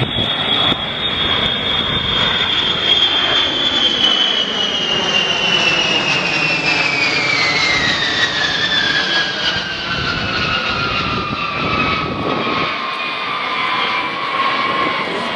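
Boeing B-52H Stratofortress flying past with its eight TF33 turbofan engines: a loud rumble with a high whine that falls steadily in pitch as the bomber goes by, dropping fastest about halfway through.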